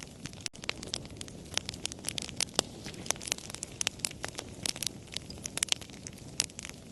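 Wood fire crackling: frequent sharp, irregular pops and snaps over a soft steady hiss.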